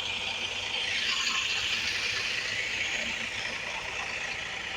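Road traffic going by: a steady rush of noise with a low engine hum beneath, a little louder from about a second in.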